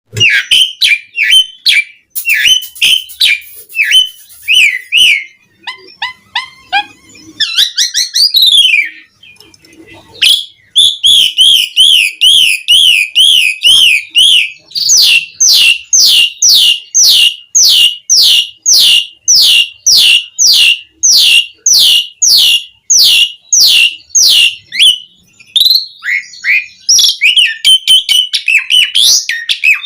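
Asian pied starling (jalak suren) singing a loud, varied song of whistles and chattering notes, with a fast warbling trill about ten seconds in, followed by a long run of repeated sweeping notes at about three a second.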